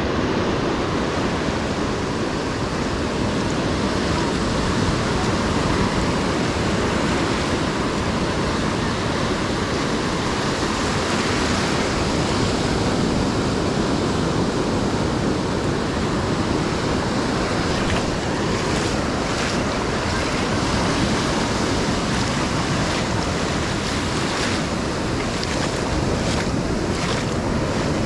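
Ocean surf washing onto a sandy beach, a steady rush of breaking waves. A few faint short crackles come through in the second half.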